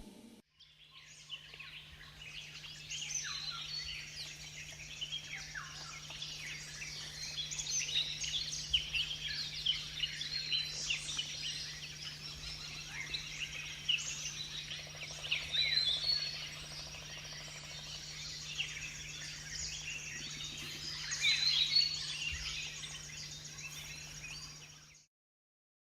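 A chorus of many birds chirping and calling at once, with a steady high thin tone and a low hum underneath. It cuts off abruptly near the end.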